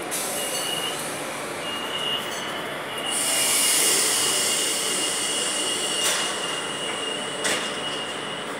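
1980s electric suburban train standing at the platform: a steady high whine, with a loud hiss of air starting about three seconds in and lasting a few seconds, and two short clunks near the end.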